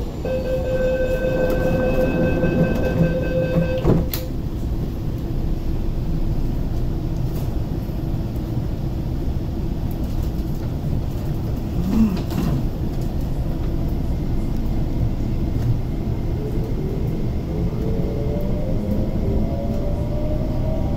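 MTR East Rail Line SP1900 (IKK-train) door-closing warning tone sounding steadily for about four seconds, ending as the doors shut. Then the train runs under a steady rumble and starts pulling away, with a rising whine in the last few seconds.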